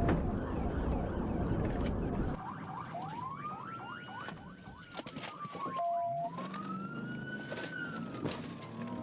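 Police car sirens wailing, one slowly rising and falling in pitch twice while faster sweeping sirens sound over it. A heavy rumble fills the first two seconds and then drops away. A short steady beep sounds just before the start and again about six seconds in.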